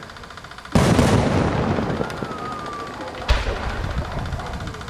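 Aerial fireworks shells bursting: a loud bang about three quarters of a second in, with a fading rumble after it, and a second bang about three seconds later.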